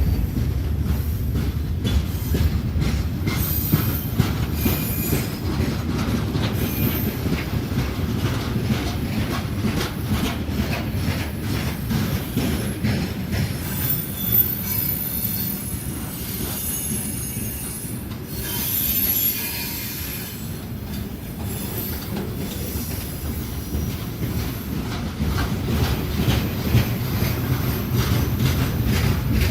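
Train passing close by: a steady low rumble under dense wheel clatter over the rails, with short high-pitched wheel squeals about halfway through.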